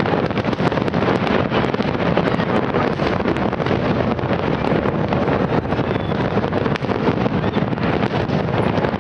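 Fireworks display going off in a continuous, even barrage of pops and crackle, with wind buffeting the microphone.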